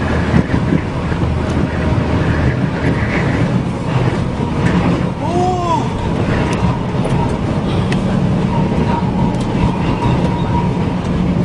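Strong wind blowing with a steady low vehicle engine hum underneath. About five seconds in, a short call rises and falls.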